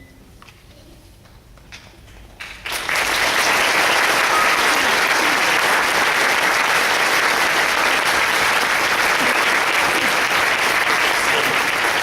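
A short hush with a few scattered claps, then an audience breaks into applause about two and a half seconds in and keeps clapping steadily.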